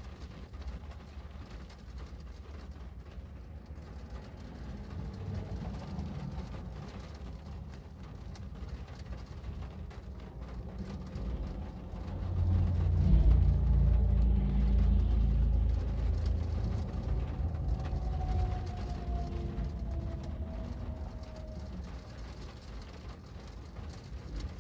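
Low rumble of a passing vehicle over steady rain: it swells sharply about halfway through and fades slowly over several seconds, with a faint falling whine as it goes.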